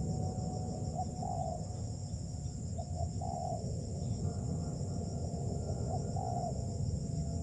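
Spotted dove cooing, each phrase a couple of short notes and then a longer coo, about three times, over a steady high insect drone and a low rumble.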